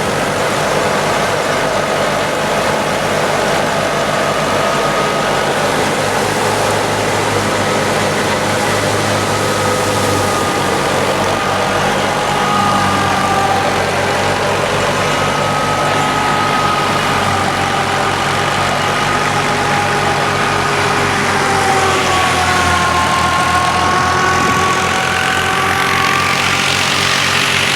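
1978 Fiat 55 hp tractor's diesel engine running steadily at a low speed. Its pitch dips slightly and comes back up in the last few seconds.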